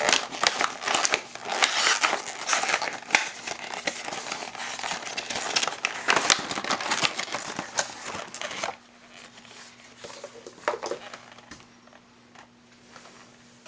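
Plastic packaging crinkling and rustling as it is handled, dense crackles for about nine seconds, then only faint occasional rustles.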